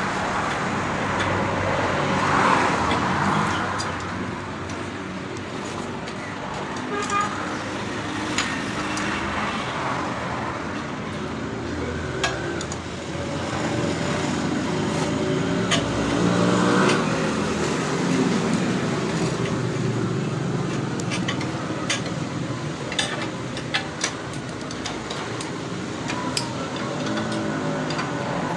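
Road traffic going by, with one vehicle's engine swelling louder in the middle, over scattered sharp metallic clicks of a spanner tightening the motorcycle's clutch-cover bolts.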